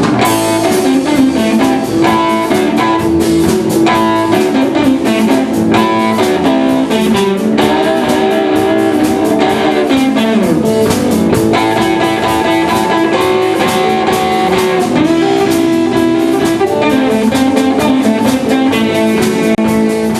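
Blues band playing an instrumental break: a guitar takes the lead melody, with bent notes, over a drum beat.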